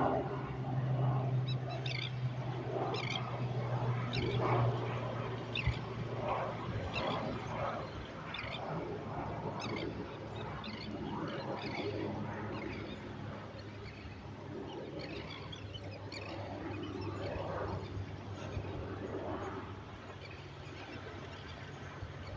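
Birds calling in many short, quick chirps, over an even background wash and a steady low hum that is strongest in the first several seconds.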